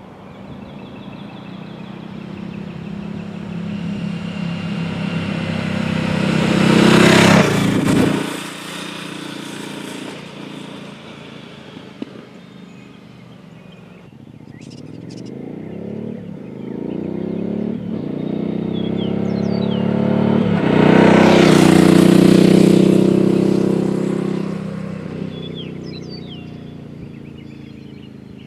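Suzuki DL1000 V-Strom's V-twin through a Holeshot Performance slip-on exhaust, riding past twice. Each pass swells to a loud peak and falls away, the first about a quarter of the way in and dropping off sharply, the second building with rising revs past the middle and fading slowly.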